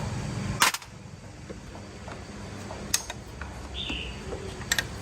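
A low rumble that cuts off with a loud sharp click, then a few isolated sharp clicks, like metal parts or tools knocking during work on a motorbike.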